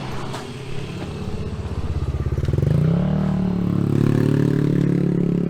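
A motorcycle engine pulling away close by: its pitch climbs about two and a half seconds in as it speeds up, then holds steady and loud.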